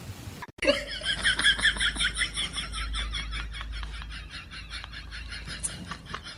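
A person laughing hard: a long run of quick, repeated bursts that starts suddenly about half a second in and tails off gradually.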